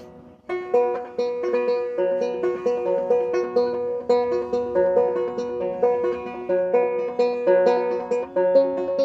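Banjo being picked: a chord rings out and fades, then about half a second in a steady rolling pattern of single picked notes begins and runs on evenly.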